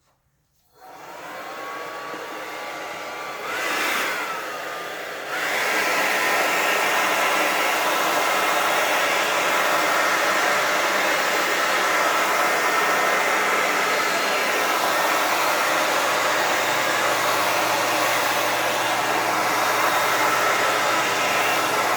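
Hair dryer switched on, its motor whine rising briefly as it spins up, then blowing steadily. About five seconds in it gets suddenly louder and runs on steadily, blowing wet acrylic paint across a canvas.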